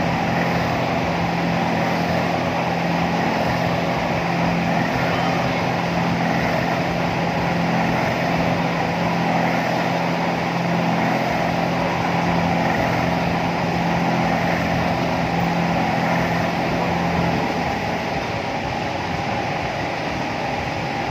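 Steady mechanical hum of a theme-park airplane ride running, with a low pitched drone that stops about three-quarters of the way through.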